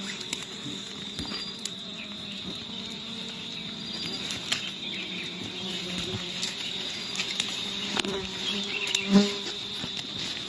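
Wasps buzzing around their ground-nest entrance, a low wavering hum that swells as one flies close about nine seconds in, over a steady high-pitched insect trill such as crickets.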